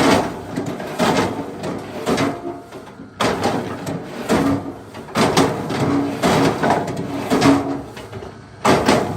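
Axe blows chopping into wood, struck at an irregular pace of roughly one a second, some with a short ringing note after the hit.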